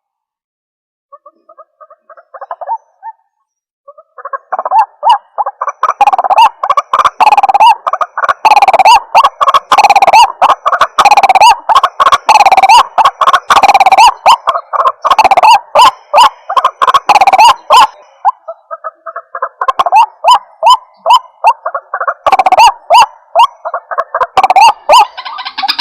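White-breasted waterhen calling: a rapid run of repeated croaking calls. It starts faint, turns loud about five seconds in, and slackens briefly about two-thirds of the way through before picking up again.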